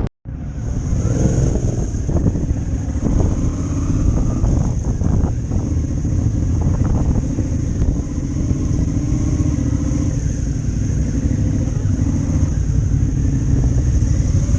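Motorcycle running on the road, its engine note rising and falling a little over a steady low rumble, after a brief silent break at the very start.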